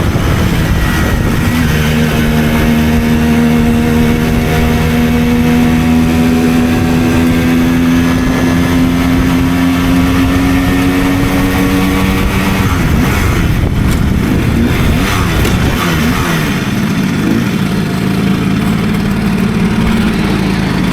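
Simson 50 cc two-stroke moped engine running under way. Its pitch holds and slowly climbs for about ten seconds, then drops and wavers as the throttle eases, and steadies again near the end.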